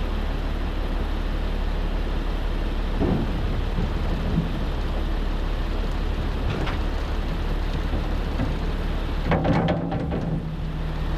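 Wheel loader loading fill dirt into a triaxle dump truck's bed: thuds of dirt landing in the bed over the steady rumble of diesel engines, with a louder burst of noise near the end.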